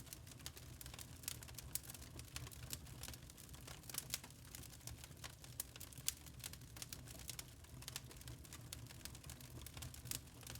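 Log fire in a fireplace crackling: many small irregular pops and snaps over a low steady rumble.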